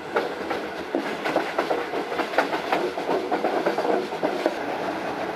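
Passenger train running on the rails, with a steady rumble and many irregular clacks and knocks from the wheels and the carriage.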